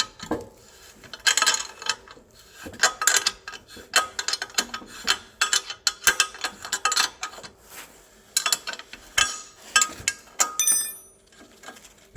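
Ratchet wrench clicking in several quick bursts as it works the exhaust flange bolts, with a short metallic ring near the end.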